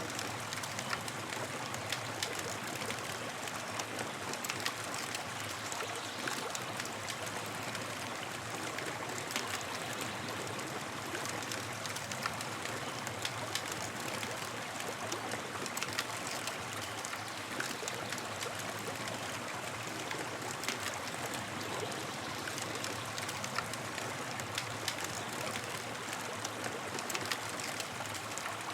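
Campfire burning steadily, with a continuous soft hiss and frequent small crackles and pops from the burning wood.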